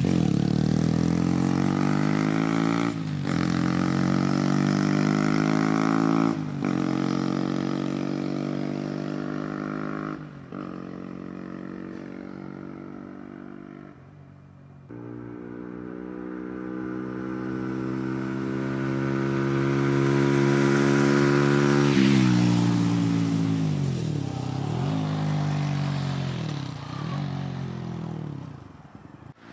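Honda CBR125R's single-cylinder four-stroke engine through a Scorpion carbon aftermarket exhaust, accelerating through the gears as it rides away, its pitch climbing and then dropping at each upshift about every three seconds. It fades, then approaches and passes by loudest about two-thirds through, pitch falling as it goes past, with further gear changes as it moves off.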